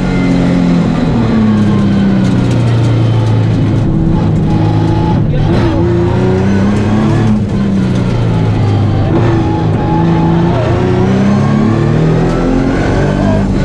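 Nissan 350Z rally car's 3.5-litre V6 heard from inside the cabin, pulling hard in second gear with the revs rising and falling repeatedly, and brief dips about five and seven and a half seconds in.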